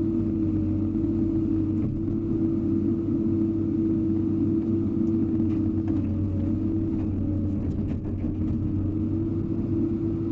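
Hydraulic excavator's engine running steadily, a constant drone with a low hum and a steady tone above it.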